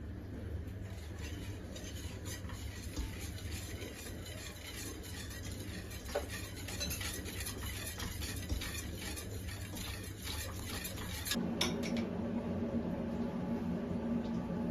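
A utensil stirring and scraping against cookware, with light clinks. About eleven seconds in, a steady low hum starts.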